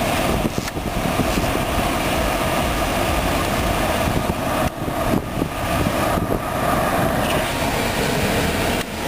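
Dodge Journey's climate-control blower pushing air through the dash vents: a loud, steady rush with a faint hum in it, dipping briefly a few times.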